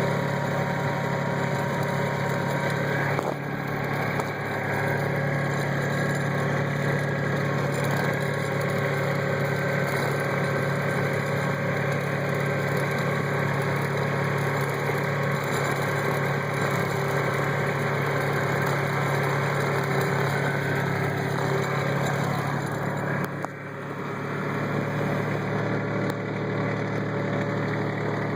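Kubota tractor's diesel engine running steadily while driving, dipping briefly in level about three seconds in and again about twenty-three seconds in.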